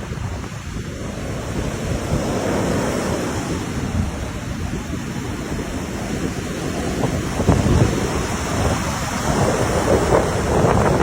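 Sea waves washing ashore in a steady rushing surge that swells and eases, with wind buffeting the microphone.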